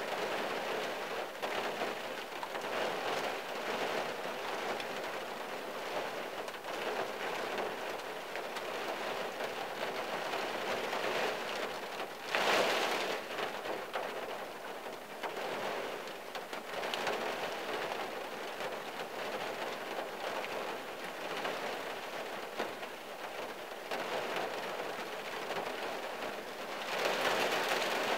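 Rain drumming steadily on the roof and windshield of a '74 Valiant, heard from inside the cabin. It swells into heavier bursts about twelve seconds in and again near the end.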